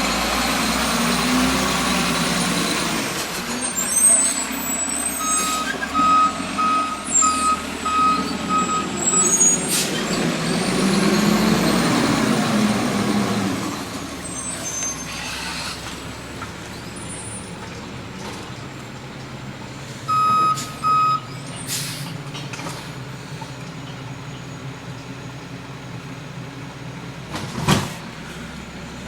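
Garbage truck's diesel engine running and revving up twice, with its reversing beeper sounding a run of about six beeps and later a few more. Air brakes hiss several times, most loudly near the end.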